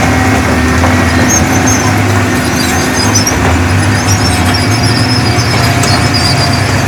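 Diesel engine of heavy earthmoving machinery running steadily, with short high-pitched squeaks coming and going over the engine.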